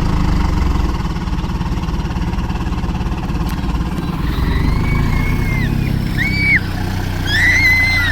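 Vehicle engine running with a steady low hum. From about halfway through, several short high-pitched squeals rise and fall over it.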